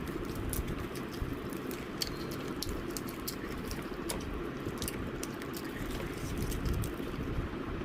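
A person eating KFC fried chicken up close: wet chewing and mouth sounds, with many small sharp crunchy clicks.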